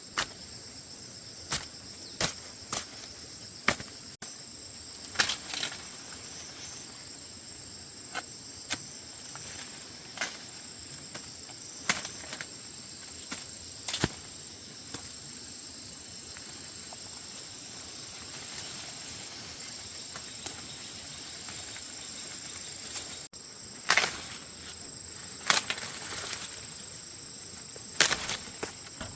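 Steady high-pitched insect buzz, with irregular sharp snaps and crackles that come more thickly near the end.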